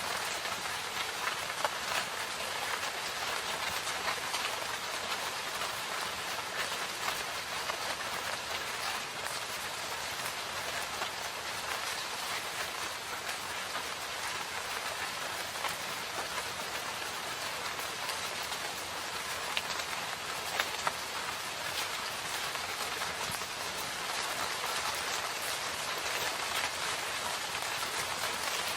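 Steady rain falling, an even hiss with scattered sharper drops standing out now and then.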